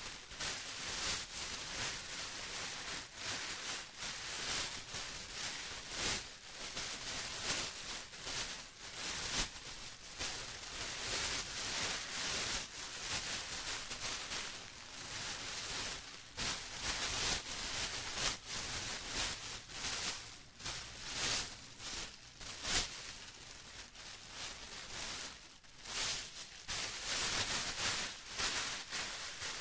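Plastic being crumpled and rustled by hand: a continuous, irregular crinkling with many sharp little crackles and no rhythm.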